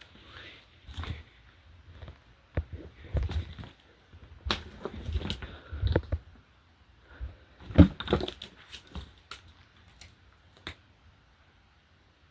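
Irregular knocks, rustles and dull thumps of movement, with a sharp thump about eight seconds in.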